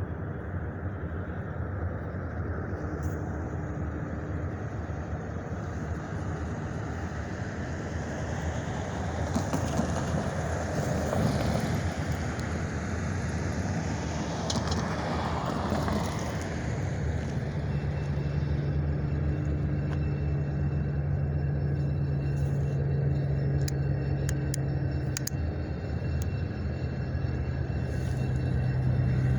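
Diesel locomotive engine running with a steady low drone. Partway through, a broad rush of noise swells and fades. About 17 seconds in, the engine note grows stronger and stays up.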